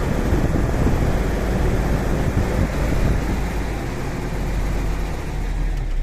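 Heavy truck's engine running steadily, a low rumble under a broad wash of noise.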